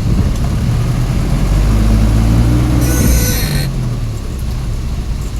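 Truck engine running steadily, its note rising a little and then easing off. A brief high hiss with a squeal cuts in about three seconds in and stops under a second later.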